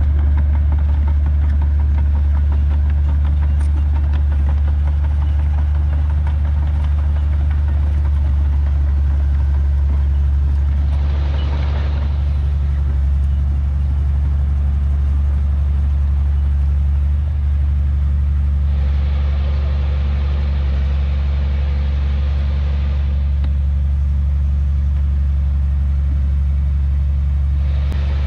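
Heavy diesel engine of earthmoving machinery running steadily with a deep, constant drone. A brief rush of higher noise comes about eleven seconds in, a longer one from about nineteen to twenty-three seconds, and another near the end.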